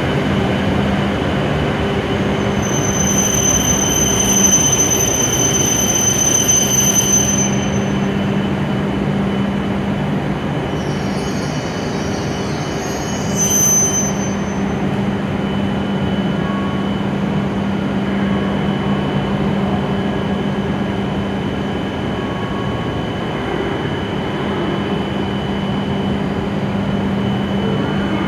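W7-series Shinkansen train running into the platform with a steady low hum. A high-pitched squeal sounds from about three to seven seconds in, with a brief, fainter squeal a little before halfway.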